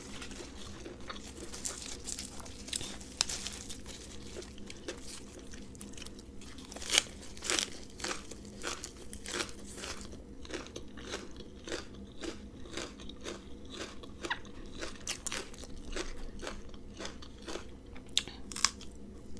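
Close-up chewing and crunching of a spicy rice-noodle salad eaten with raw vegetables: repeated crisp bites and wet chewing, with one louder crunch about seven seconds in.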